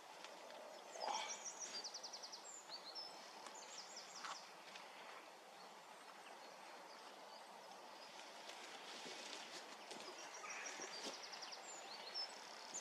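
Faint songbird singing, with short high trilled phrases about a second in and again near the end, over a quiet outdoor background. A few soft knocks or rustles are heard in between.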